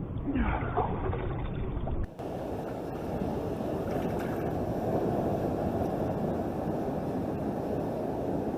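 Steady rush of seawater washing over and around shoreline rocks. It starts abruptly about two seconds in, after a short stretch of quieter, muffled sound.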